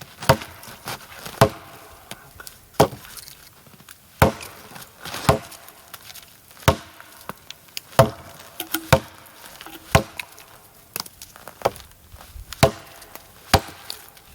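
Firewood being chopped with an axe: a steady series of sharp blows into wood, about one a second, a dozen or so strikes.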